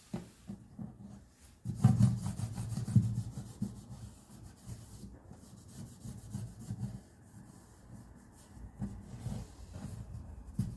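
Irregular back-and-forth rubbing strokes of hand abrasion on wood, such as sanding or filing during a guitar setup. The strokes are heaviest about two to three and a half seconds in, then lighter.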